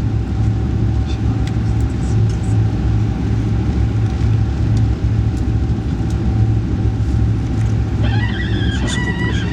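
Alfa Pendular (Pendolino) tilting train running, a steady low rumble with a faint steady whine above it. About eight seconds in, a higher sound with several held pitches comes in over the rumble.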